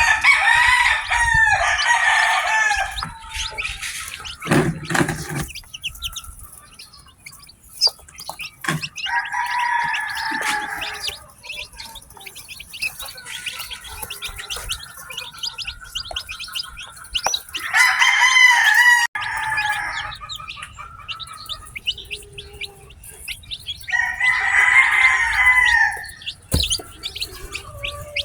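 Newly hatched chicks peeping constantly, while a rooster crows four times, each crow lasting about two seconds and spaced several seconds apart.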